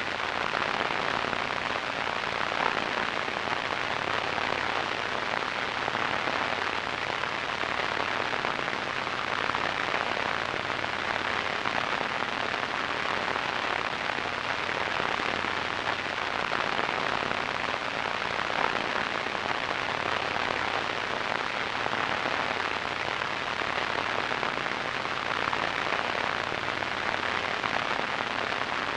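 Radio static: a steady, even hiss with a crackly grain, strongest in the middle and upper-middle range and dull at the very top.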